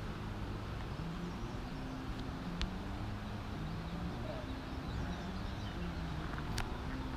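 Steady outdoor background noise with a low hum under it, a few faint bird chirps, and two sharp clicks, about two and a half seconds in and near the end.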